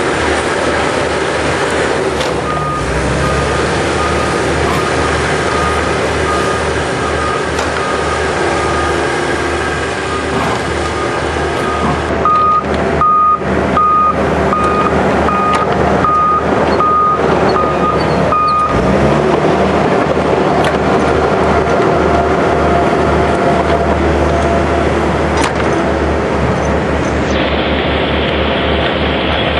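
A heavy vehicle's engine running steadily while its reversing alarm beeps a single high tone, about one and a half beeps a second. The beeps are faint at first, loudest in the middle, then stop, returning faintly near the end.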